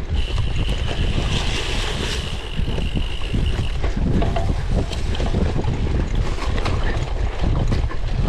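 Wind buffeting the microphone of a camera on a cyclocross bike being ridden hard over rough ground, with many small rattles and knocks. A steady high squeal sounds for about three and a half seconds near the start.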